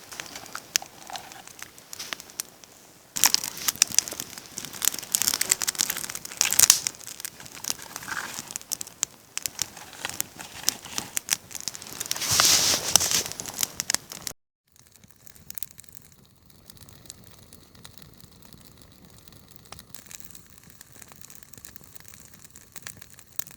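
Campfire of wood burning and crackling, with dense irregular pops and snaps and hissing swells. About two-thirds of the way in it cuts off abruptly to a much quieter background with only a few faint ticks.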